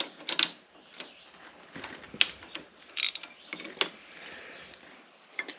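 Hand ratchet clicking in short, irregular spells with light metal rattles, as the valve cover screws are backed out.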